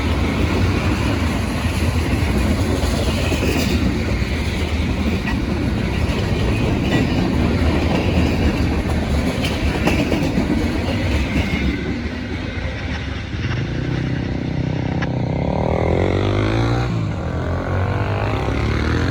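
Freight cars of a Norfolk Southern train rolling past, with the steady rumble and clack of wheels over the rail. About two-thirds of the way in, the hiss of the rolling noise fades and a lower, steadier rumble takes over.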